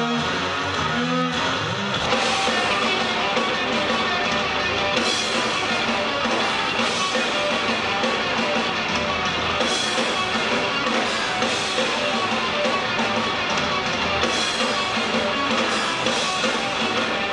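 Live noise-rock band playing loud, distorted electric guitar over a dense wall of sound; it thickens about two seconds in.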